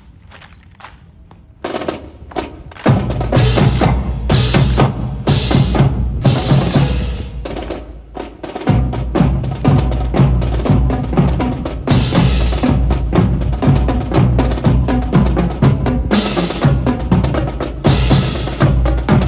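Drum-led percussion music with snare drum rolls and bass drum beats, coming in about two seconds in. It eases off briefly around eight seconds in, then picks up again.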